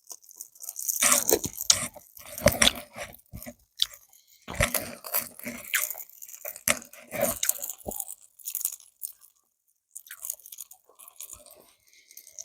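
Close-up crunching and chewing of food in irregular bursts, busiest in the first two thirds and trailing off near the end.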